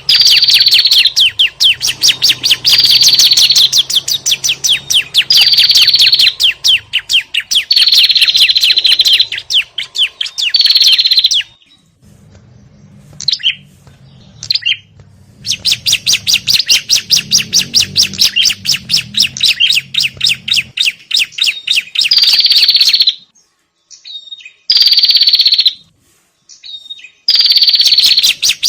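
Recorded bird-lure calls of prinias (prenjak and ciblek): fast, dry chattering trills of rapid ticks, each phrase ending in a buzzy note, repeated over and over, with two brief near-pauses about twelve and twenty-four seconds in.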